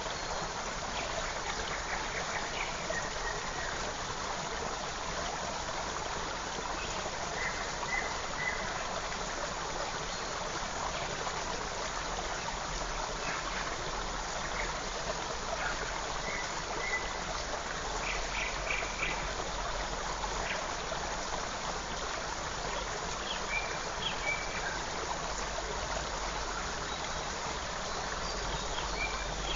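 Forest stream running steadily, with short, faint bird chirps now and then over the water.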